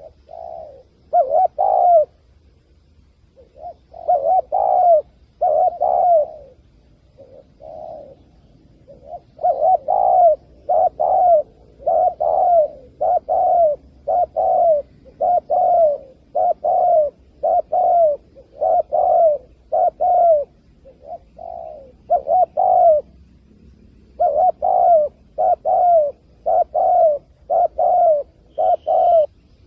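Spotted dove cooing over and over, short coos coming in runs of about two a second with brief pauses between runs. This is a lure call for drawing doves to a trap. A short, higher chirp comes near the end.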